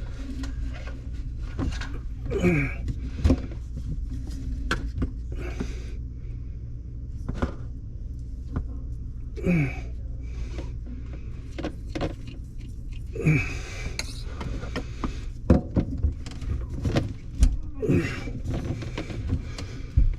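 PVC drain pipe and fittings being handled and fitted under a sink: scattered clicks and knocks, with a few short squeaks that fall in pitch, over a steady low hum.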